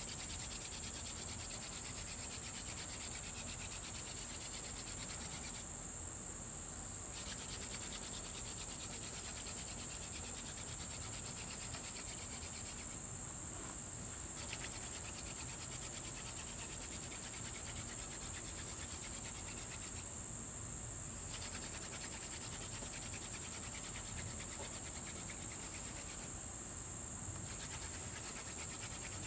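Crickets trilling steadily and high-pitched over the dry rubbing of a mullein hand-drill spindle twirling in a shortleaf pine fireboard for a burn-in. The rubbing stops briefly about every seven seconds as the hands return to the top of the spindle.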